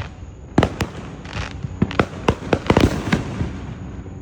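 Fireworks going off: a quick, irregular series of sharp bangs and pops that starts about half a second in and dies away after about three seconds.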